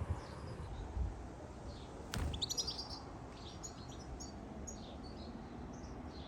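Small birds chirping in a rapid series of short, high notes, with a sharp click about two seconds in and a couple of low bumps near the start.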